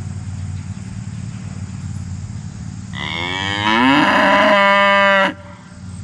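A Dexter cow mooing once: a single long, loud moo starting about three seconds in, rising at first, then held, and cutting off sharply. A steady low hum runs underneath.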